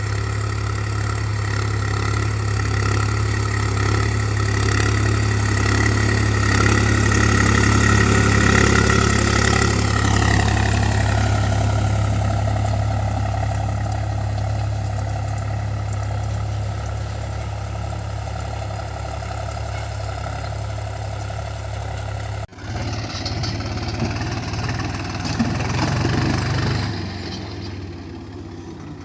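Tractor engine running steadily, its pitch sliding down about ten seconds in as it slows. About 22 seconds in, a sudden cut leads to a rougher engine sound that rises and falls.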